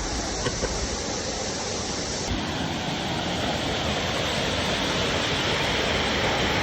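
Steady rush of a waterfall. The water sound shifts abruptly about two seconds in and then runs on.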